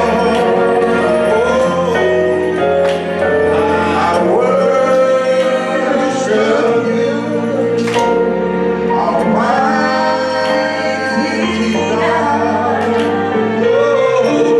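Gospel worship music: singing voices over held chords and a bass line that moves every second or two.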